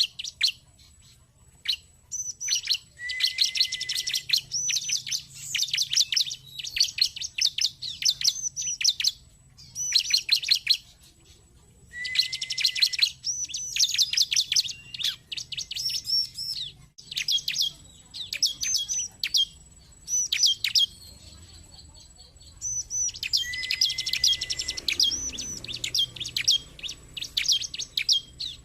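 Bar-winged prinia (ciblek) singing: repeated bursts of rapid, high chirping notes, each burst a second or so long with short pauses between, some opening with a lower held whistle.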